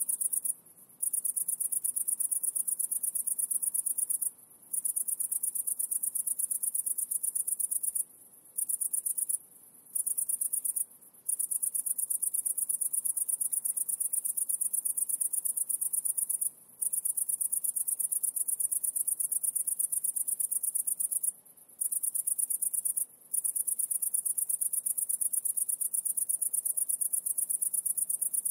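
High-pitched insect trill, a fast steady pulsing that breaks off for short moments about eight times.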